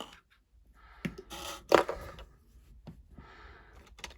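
Plastic Lego pieces being handled, rustling and clattering, with a sharp click a little under two seconds in.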